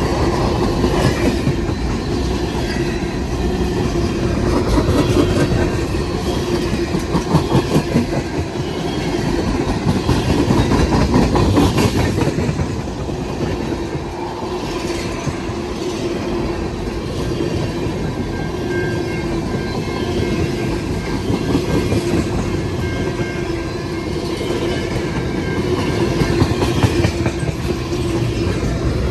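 Freight train cars rolling past, a steady rumble with the wheels clicking over the rail joints and faint high squeals from the wheels partway through.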